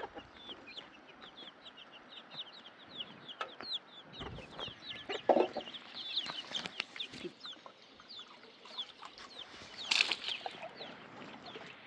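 Chickens: a steady run of short, high, falling peeps, with a louder, lower cluck about five seconds in and a sharp knock near ten seconds.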